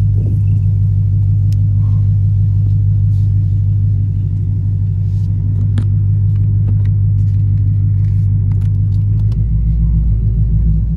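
2021 Ford Mustang GT's 5.0 Coyote V8 running through an MBRP X-pipe and axle-back muffler, a steady exhaust drone at an even engine speed while cruising.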